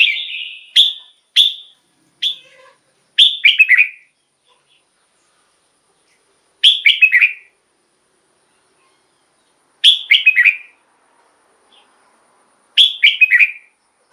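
Red-whiskered bulbul singing: a run of quick short notes at first, then short warbled phrases of a few notes repeated about every three seconds.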